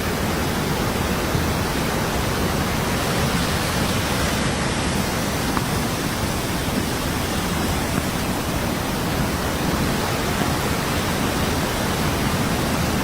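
Fast-flowing floodwater rushing: a steady, even hiss of water noise.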